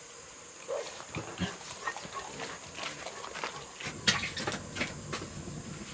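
Pigs grunting and snuffling in short calls among scattered clicks and knocks, getting busier toward the end.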